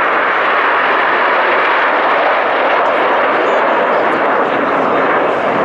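Display aircraft flying low overhead: a loud, steady engine rush that holds through the whole pass.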